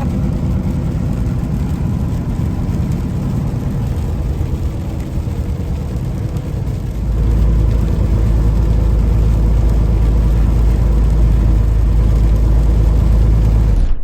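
Diesel semi truck heard from inside the cab while driving on the highway: a steady engine drone with tyre and road noise. About halfway through, the low rumble grows louder and heavier.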